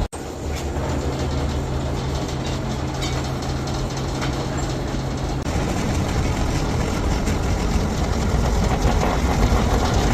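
Heavy machinery running steadily with a continuous clatter and a low hum; the hum stops about five and a half seconds in.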